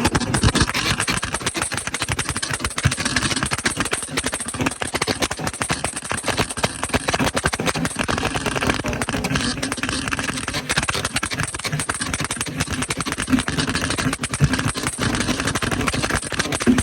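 Car engine revved hard at a car meet, its exhaust crackling and popping rapidly and without a break.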